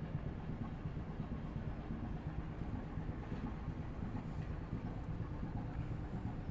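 Ship engines running during unberthing with a tug assisting, a steady low rumble.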